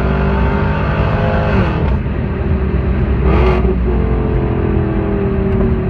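Car engine running at idle through its exhaust, with one quick throttle blip about three and a half seconds in.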